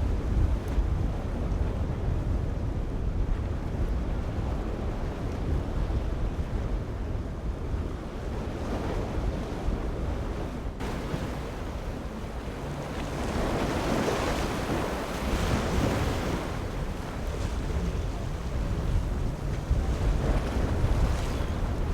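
Wind buffeting the microphone over the rush of surf in a rough inlet. A louder wash of breaking water swells up about two-thirds of the way through, then eases off.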